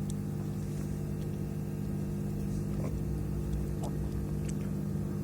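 Steady low electrical hum with a few faint light clicks.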